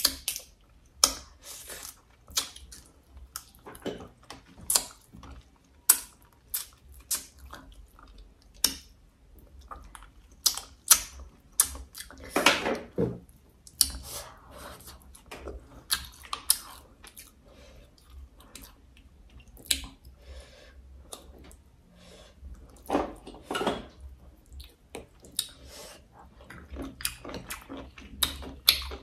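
Close-miked eating sounds: chewing and mouth smacks on braised crab and boiled snail meat, with frequent short sharp clicks and a couple of longer crunchy stretches about halfway and again past two-thirds of the way.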